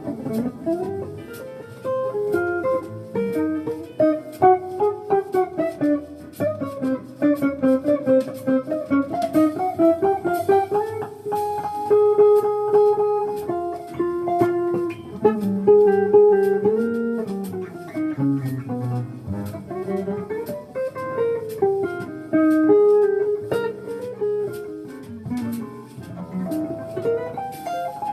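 Jazz guitar playing: a steady stream of plucked single notes weaving a melody over chord tones.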